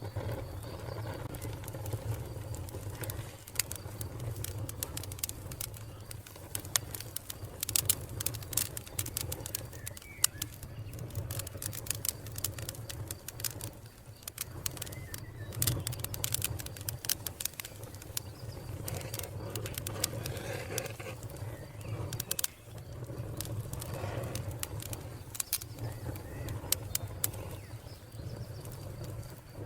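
Wood fire crackling, with many sharp, irregular pops and snaps over a steady low rumble, and faint bird calls now and then.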